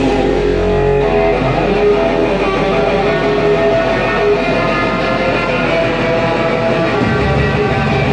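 Band music led by electric guitar, loud and steady, with a low bass line coming in about seven seconds in.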